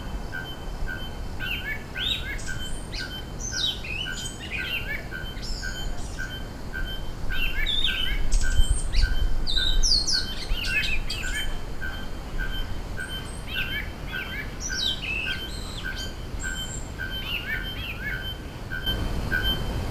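Several small birds chirping and twittering in quick short calls, many sweeping down in pitch, over a low rumbling background. A faint steady pulsing high tone runs beneath.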